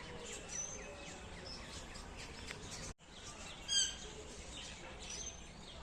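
Several birds chirping and calling, with one louder, clear whistled call just under four seconds in. The sound cuts out briefly just before that call.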